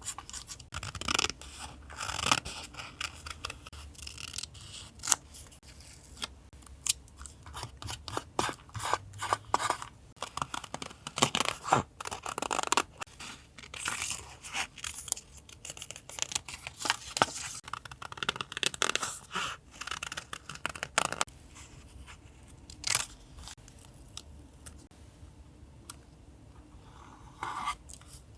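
Close-up paper crafting sounds of collage journaling: paper being handled, cut and torn, as a run of short snips, rustles and taps with brief pauses between.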